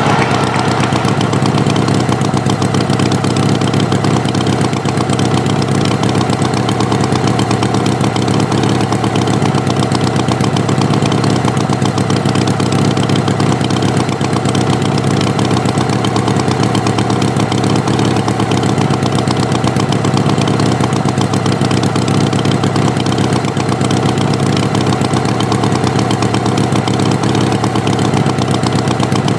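Tractor engine running steadily at idle, an even drone that does not change.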